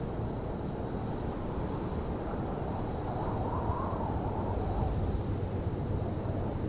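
Railyard ambience: a steady low rumble, with a thin steady high whine running over it and a faint tone that swells and fades about halfway through.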